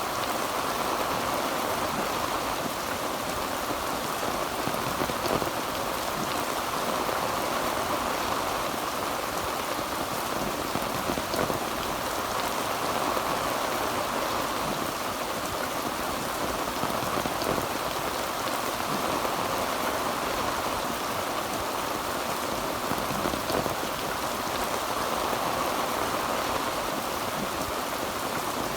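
Heavy rain falling on a tin roof: a steady, dense patter with scattered individual drop ticks, even throughout.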